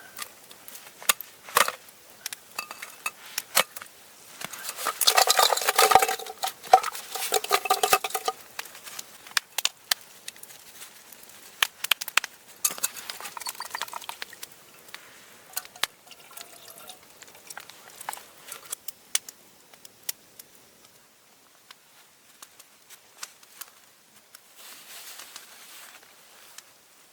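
Clinks, taps and scraping of metal cookware and utensils, as in camp cooking. A louder stretch of scraping and ringing comes about five to eight seconds in.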